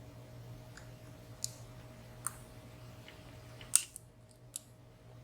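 A lock pick and tension tool clicking against metal inside a WSW W10 padlock's keyway while its pins are picked: four sharp clicks, the loudest about three-quarters of the way in, over a low steady hum.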